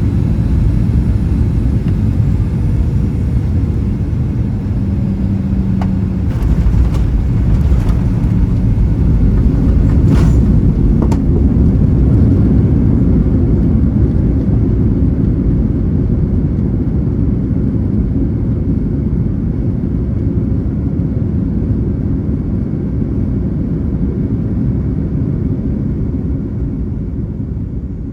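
Cabin noise inside a Boeing 737-800 during landing: a heavy low rumble, with a few sharp clicks and rattles between about six and eleven seconds in. It is loudest around ten seconds in and fades gradually near the end.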